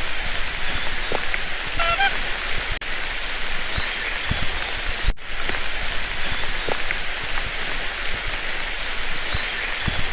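Steady dense hiss with scattered sharp pops, like rain on a surface or oil sizzling, with a brief pitched call about two seconds in.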